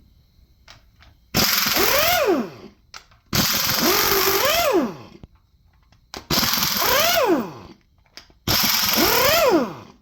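Impact wrench run in four short bursts of about a second each, its motor pitch rising and then falling with each pull of the trigger, over a strong hiss: bolts being broken loose while tearing down a 5.3 L LS V8.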